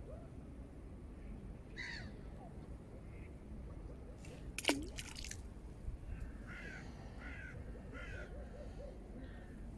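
Birds calling outdoors, crow-like: a run of four or five short harsh calls, evenly spaced, a little past halfway. A single sharp falling sweep comes about five seconds in, over a low steady background noise.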